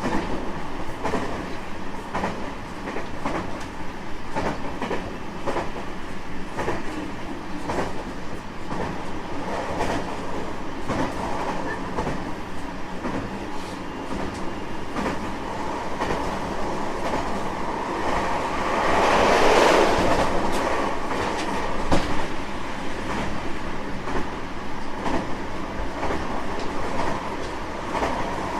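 JR West 225-5000 series electric multiple unit running at speed, with steady wheel-on-rail noise and a regular clickety-clack of wheels over rail joints. Partway through, a louder rushing swell rises and fades over about two seconds, followed by one sharp clack.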